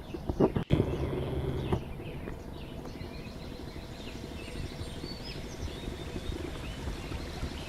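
Scattered short bird chirps over a low, steady outdoor rumble, with a few sharp knocks in the first two seconds.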